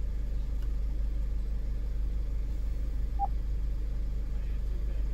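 Car engine running with a steady low hum, heard from inside the cabin. A single short beep sounds about three seconds in.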